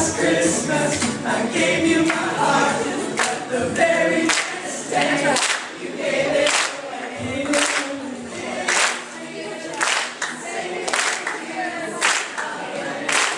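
A group of voices singing a cappella, with a sharp clap on the beat about once a second starting about four seconds in.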